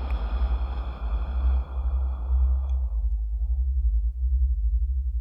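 A long breath out, a soft hiss that fades away about three seconds in, over a steady low binaural drone.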